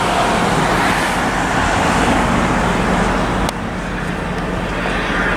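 Steady road-traffic noise with a continuous low hum; a click and a sudden small drop in level about three and a half seconds in.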